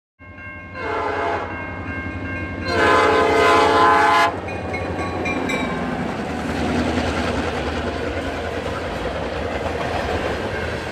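Freight locomotive horn sounding a short blast, then a longer, louder one. Then the train keeps passing, with a steady low diesel throb and wheel noise.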